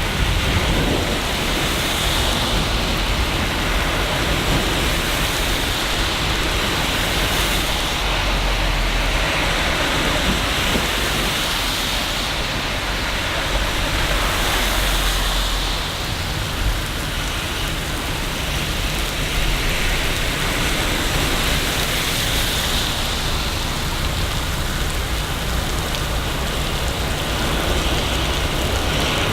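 Steady rain falling in a city, a dense even hiss with a low rumble underneath.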